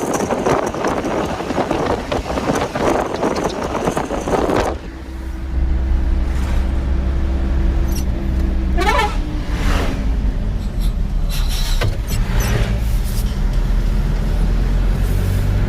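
Truck engine running with loud road or wind rush that cuts off suddenly about five seconds in, leaving a steady low engine hum.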